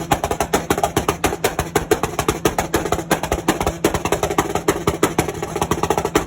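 Car engine held at a steady high rev on a two-step launch limiter, its exhaust crackling with rapid loud pops, cutting off abruptly near the end.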